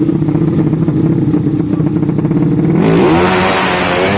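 Drag-racing motorcycle engine held at steady revs, then revved hard about three seconds in, its pitch climbing.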